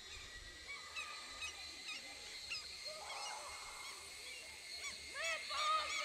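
Birds calling: many short, repeated pitched calls, overlapping and getting denser and louder near the end.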